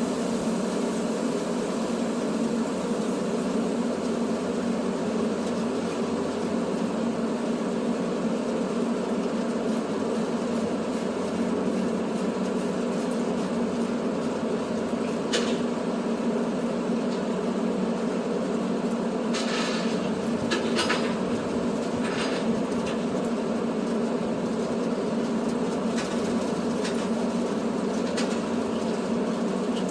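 Tow truck running down the road, heard from inside the cab: a steady drone of engine and road noise, with a few short rattles and clicks in the middle.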